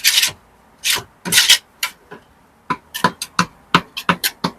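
Brick trowel working lime mortar: a few short scrapes, then a quick run of sharp metal taps and clicks against brick from a bit past halfway.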